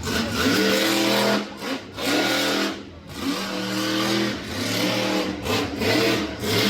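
Monster truck engine revving hard in repeated bursts, the pitch climbing and falling back several times.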